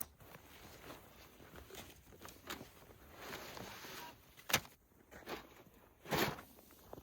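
Camp gear being handled during setup of a titanium wood stove: light clicks and rustling, with two sharp knocks about four and a half and six seconds in.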